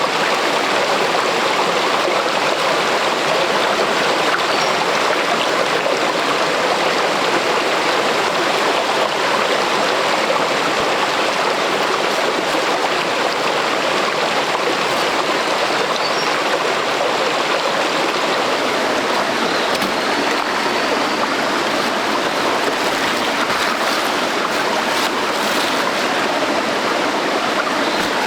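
Steady rushing of a stream of running water, even and unbroken throughout.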